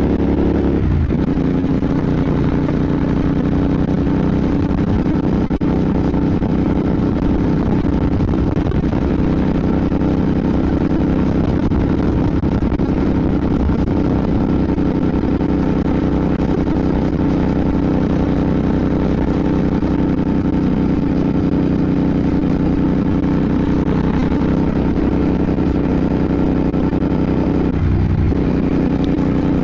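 Royal Enfield Bear 650's 648 cc parallel-twin engine running steadily under way. The engine note drops briefly about a second in and again near the end.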